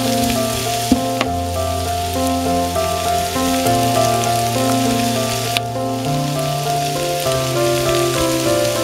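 Sliced onions, carrots and kielbasa sizzling as they fry in a pan, with a couple of brief clicks. Background music of slow, held notes plays over the sizzle.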